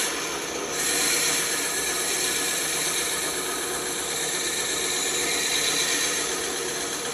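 Bandsaw running with its blade cutting through wood, a steady rasping machine noise that briefly thins in its highest part just under a second in.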